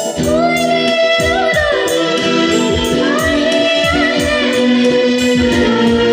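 A young girl singing a melody with vibrato over an instrumental backing of keyboard and guitar chords with a steady beat.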